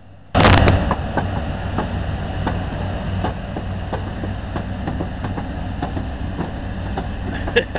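Excavator's diesel engine working under load during a tow, with irregular metallic clanks throughout. It starts with a sudden loud burst about half a second in.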